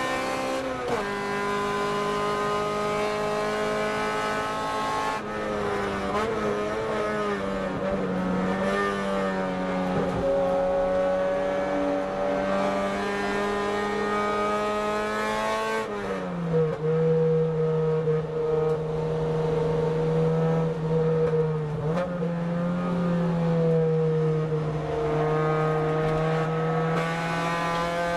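Car engine heard from inside the car while it is driven on a race circuit, running at fairly steady revs. The pitch drops suddenly about a second in and again about halfway through, as with gear changes, wavers for a few seconds early on, and climbs slowly between the drops and toward the end.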